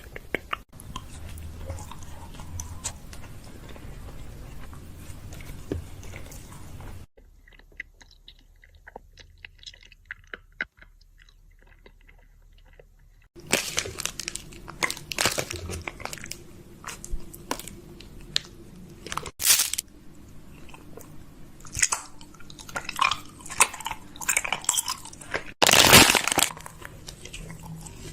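ASMR mouth sounds close to the microphone: wet clicks, smacks and crunchy mouth noises in quick, irregular runs. There is a softer stretch of faint clicks partway through and a few louder bursts near the end.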